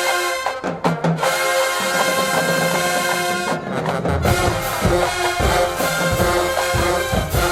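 College marching band playing: the brass section holds loud chords, breaking off briefly twice, and about halfway in the bass drums and percussion join with heavy beats under the horns.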